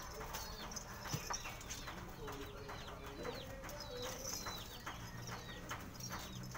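Small birds chirping over and over in short, quickly falling chirps, with a low cooing tone in the middle.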